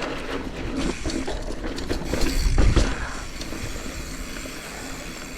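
Mountain bike rolling down a rocky dirt trail: tyres rumbling over the ground and the bike rattling, with several sharp knocks over bumps in the first three seconds, the heaviest about two and a half seconds in, then a steadier rolling rumble.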